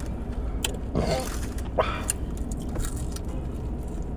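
A burp about a second in, followed by a short vocal sound, amid scattered small clicks from eating.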